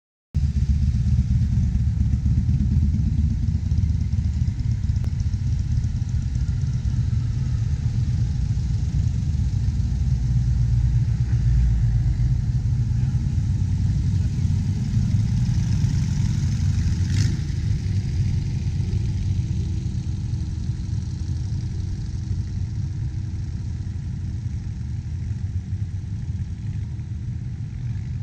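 Motorcycle and trike engines running at low speed as they ride slowly past, a steady low rumble that eases off toward the end. One sharp click about 17 seconds in.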